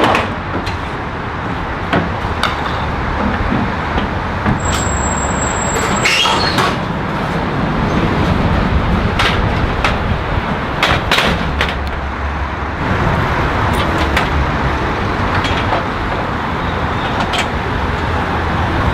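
A large vehicle's engine running with a steady low rumble amid street noise, with scattered knocks and clicks.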